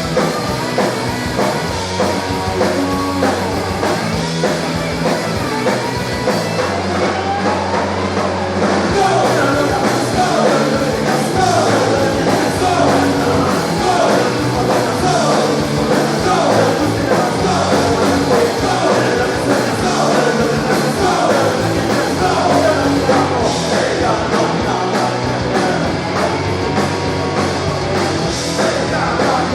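Live rock band playing loud punk-style rock: drums, bass and electric guitars. About nine seconds in a wavering melodic lead line comes in over the band, and the music gets a little louder.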